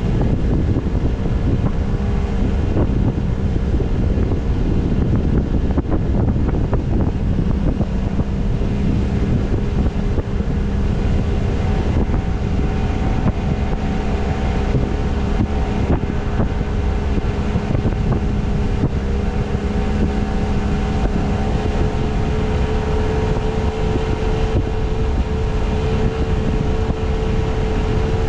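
Boat motor running steadily under way, a constant engine drone with wind noise on the microphone.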